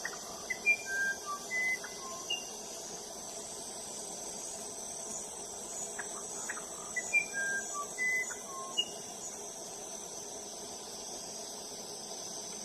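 Musician wren (uirapuru) singing: two phrases of clear, pure whistled notes jumping between different pitches, each about two seconds long and about six seconds apart, with a few short clicking notes among them. A steady high insect trill runs underneath.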